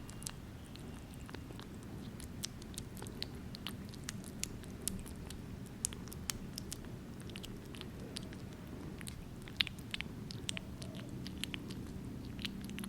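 A kitten eating, with irregular small wet clicks of chewing and licking, several a second, over a low steady hum.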